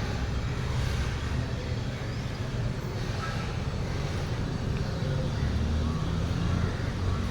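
Huebsch commercial washing machine running, a steady low rumble and motor hum.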